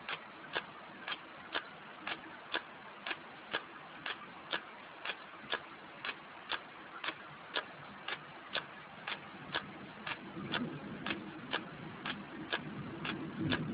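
Steady mechanical ticking, about two ticks a second, evenly spaced. A low rumble builds in the last few seconds.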